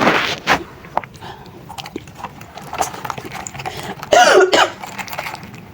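Small clicks and mouth noises of eating chewy tapioca meatballs in spicy broth, then a short loud cough about four seconds in, typical of someone eating very spicy food.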